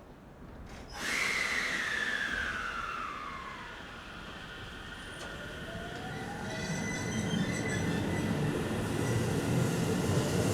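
JR Central 313 series electric train pulling away from a station. A sudden hiss about a second in carries a falling whine, then from about halfway a rising VVVF inverter and motor whine builds steadily louder as the train accelerates.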